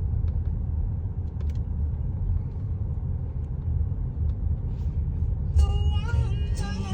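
Steady low rumble of a slowly moving car, engine and road noise heard inside the cabin. Near the end a song with a singing voice starts on the car radio.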